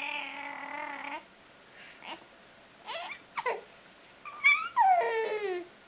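A baby vocalizing while being fed: a drawn-out whine at the start, a few short squeaks, then a longer high squeal that falls in pitch near the end.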